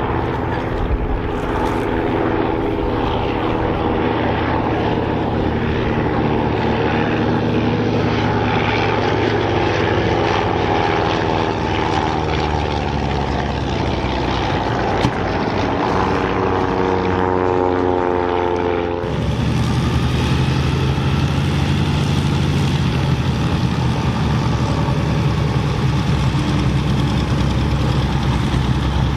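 Propeller-driven aircraft engines flying past, the engine note sliding slowly down in pitch. About nineteen seconds in the sound cuts abruptly to the steady low running of large piston aircraft engines.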